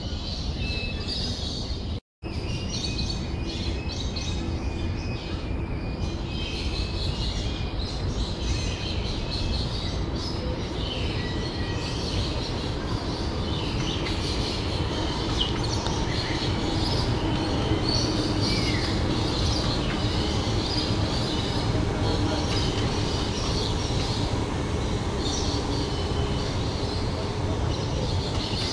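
Birds chirping and calling in short repeated notes over a steady low rumble of background noise, with a brief cut-out to silence about two seconds in.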